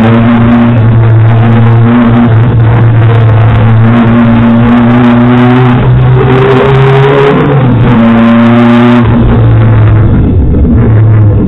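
Rally car engine heard from inside the stripped, caged cockpit, driven hard along a stage. Its note rises and falls repeatedly as the driver accelerates, shifts and lifts. The engine note drops back about nine seconds in.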